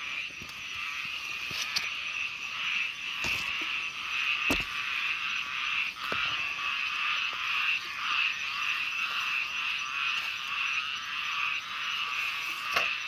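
Dense chorus of small frogs (khiat) calling without a break, many voices overlapping into a steady trilling din. A few faint sharp clicks sound over it.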